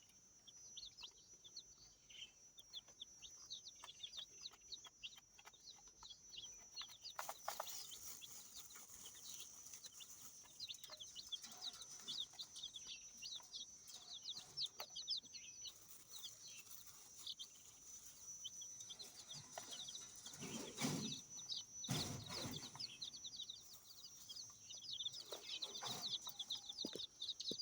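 A brood of chicks about ten days old peeping continuously, many short high chirps overlapping, with a few dull knocks about two-thirds of the way through.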